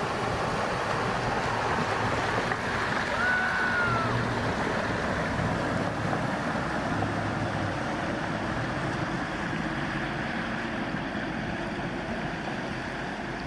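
Rushing, splashing river water as a Toyota 100 series Land Cruiser's V8 drives through the crossing, the engine running low under the steady wash of the water.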